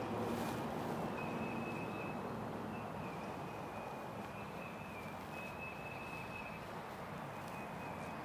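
Breeze on a lavalier microphone hidden under a shirt with masking tape, heard as a steady muffled rush. A faint thin high tone comes and goes over it.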